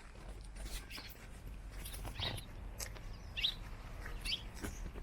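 Birds chirping: a handful of short, separate chirps about a second apart, over a steady low rumble.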